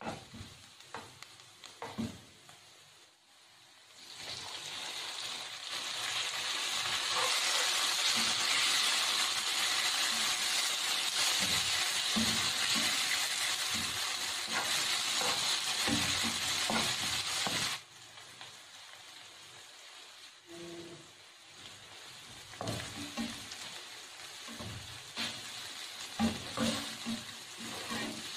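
Onions, tomatoes and green chillies frying in oil in a nonstick frying pan, stirred and tapped with a spatula. A loud, steady sizzle sets in about four seconds in and drops away suddenly a little past halfway, leaving quieter frying under the spatula's scrapes and knocks.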